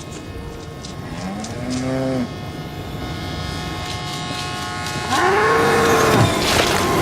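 A cow mooing twice, the second call longer and louder, its pitch rising and then falling away. Under it, the steady hum of an approaching train grows louder.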